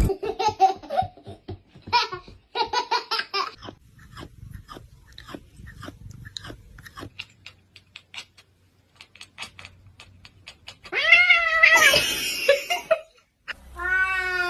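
Domestic cat vocalising: short meows and light taps, then a loud, drawn-out meow near the end that rises and falls in pitch.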